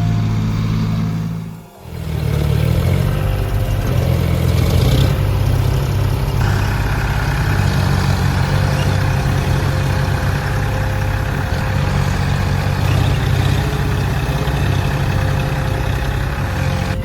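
Heavy tractor diesel engine running hard under load, its note wavering as it labours. About two seconds in the sound briefly drops out and comes back.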